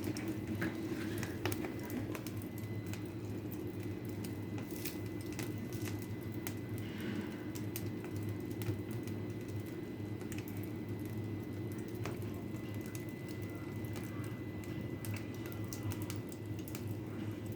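Fire in a fireplace crackling: irregular sharp pops and ticks over a steady low hum.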